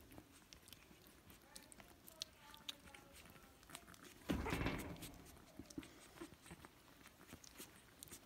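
Puppies moving about, with scattered light clicks and taps and a brief louder rustle a little over four seconds in.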